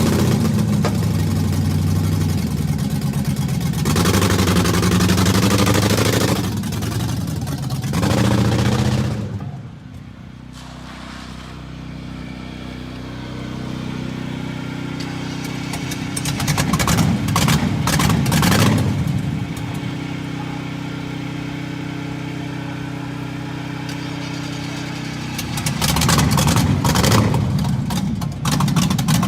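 LS V8 engine swapped into a Monte Carlo, idling and revved in several blips. About ten seconds in, its speed sags and the sound drops away before it settles back into a steady idle.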